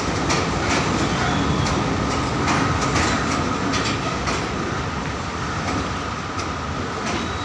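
A train running along the track: a steady running noise with a faint whine and scattered sharp clicks from the wheels over the rails, the clicks thinning out and the sound easing slightly in the second half.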